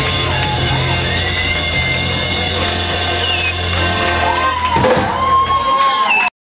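Live rock band music with sustained guitar notes and a steady bass, cutting off abruptly near the end.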